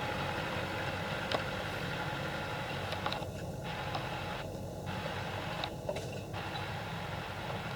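Tractor engine running steadily, with a few light knocks about a second and a half in, at three seconds and near six seconds.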